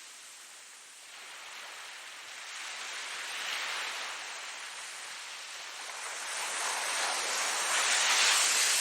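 Ocean waves surging onto a shore, a steady hiss of surf that swells twice: a smaller wave a few seconds in and a louder one near the end.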